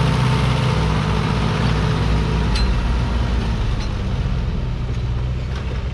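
Tractor diesel engine running steadily, its note shifting about halfway through.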